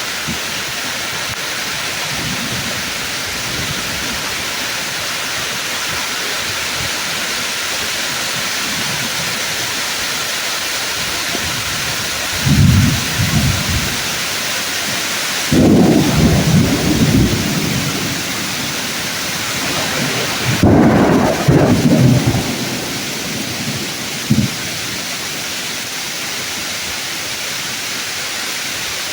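Heavy rain falling steadily on tree leaves, with thunder rumbling several times through the middle. Two of the peals start with a sudden crack, about halfway through and again a few seconds later, before rolling off; a short last rumble follows near the end.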